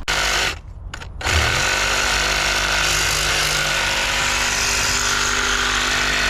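Power tool, most likely an angle grinder, cutting into metal. It is triggered briefly twice, then spins up and runs steadily at a constant pitch with a dense hiss.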